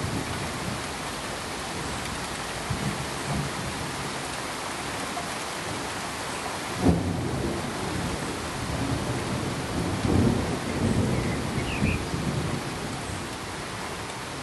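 Steady full-range hiss with irregular low rumbles under it. A sharp low thump comes about seven seconds in, and the rumbling picks up near the end.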